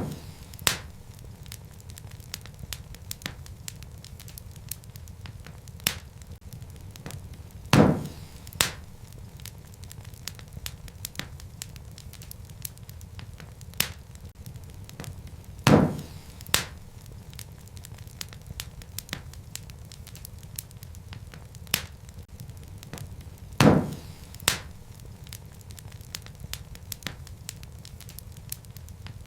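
Wood fire crackling in a fireplace: a low steady rumble with frequent small ticks and snaps. About every eight seconds comes a louder pop, followed a moment later by a smaller one.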